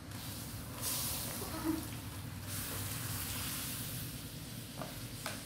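Boiled quail eggs sizzling in a pan of boiling fish-sauce glaze as they are stir-fried, the sizzle swelling about a second in, over a steady low hum.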